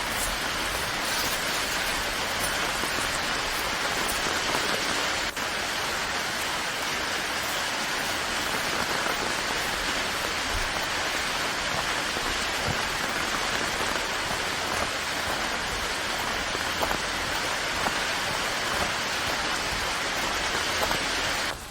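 Steady rain falling, an even, dense hiss of drops that stays level throughout.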